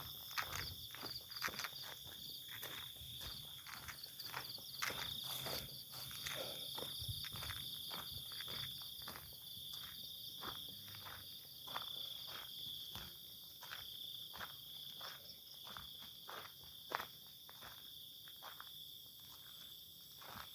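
Steady high-pitched insect chirring, with a rapid ticking trill over it for roughly the first six seconds, and frequent short rustling clicks throughout.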